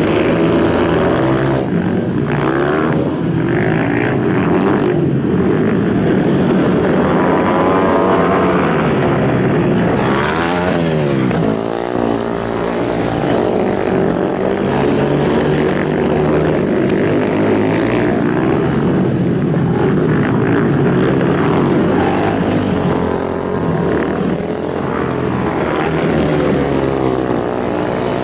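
Racing motorcycle engines running hard at high revs, their pitch rising and falling with throttle and gear changes. About ten to twelve seconds in, the pitch swoops down and back up sharply, as a bike passes.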